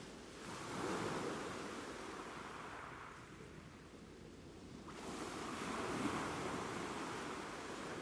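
Ocean waves breaking on a shore: two surges of surf, one about half a second in and another about five seconds in, each washing up and fading.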